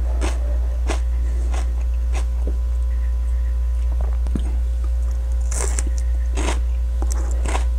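Person chewing a bite of raw, ripe Candy Cane sweet pepper, crisp crunches coming irregularly about once or twice a second. A steady low hum runs under it.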